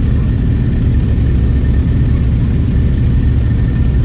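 Steady low rumble of a motorcycle under way, engine noise mixed with wind on the microphone.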